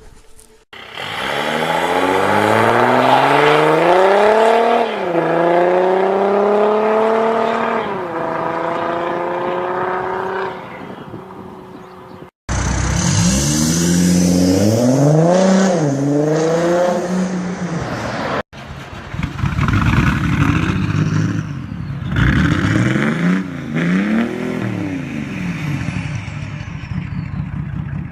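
Diesel car engines and exhausts in three short cut-together clips: the first accelerates hard with a gear change about five seconds in and another near eight seconds, the next two rev up and down in quick blips.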